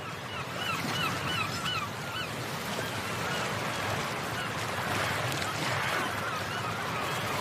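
A bird honking in about six short, quick calls in the first two and a half seconds, then fainter calls now and then, over a steady wash of shallow surf.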